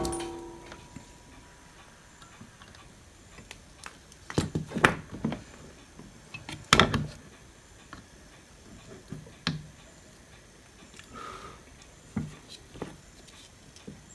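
Scattered sharp clicks and knocks of small tools and components being handled during circuit-board repair, with quiet room tone between them.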